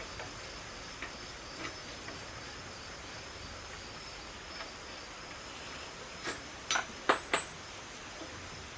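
A steady, faint, high-pitched insect drone runs in the background. Near the end come four sharp clicks or taps, the last two the loudest.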